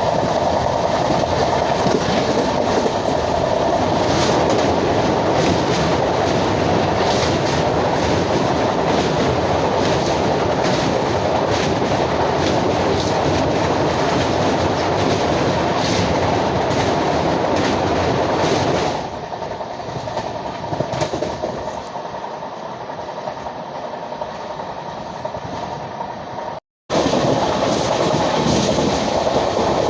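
Azad Hind Express's LHB coaches running at speed, a steady loud rumble with wheels clicking over rail joints. About two-thirds of the way through it drops to a quieter, duller run. After a brief dropout near the end, the loud running resumes.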